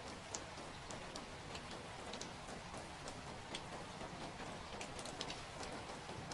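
Steady rain, an even hiss with irregular light drops ticking on a hard surface.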